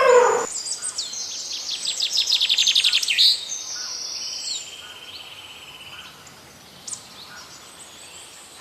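Songbird singing: high chirps and a fast trill, then a steady buzzy note, all fading to a quieter background after about five seconds.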